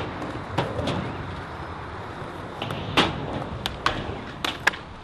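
Skateboards at a skatepark: wheels rolling on concrete with a string of sharp clacks and knocks as boards and trucks strike, the loudest about three seconds in and a quick cluster near the end.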